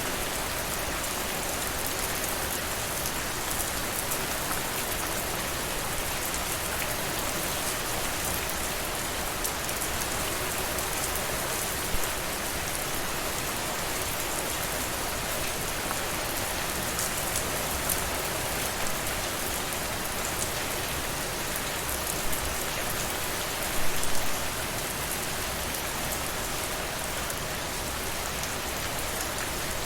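Steady, even rainfall, the patter of drops hitting a surface, with a few louder individual drop hits: one near the middle and a short cluster about two-thirds of the way through.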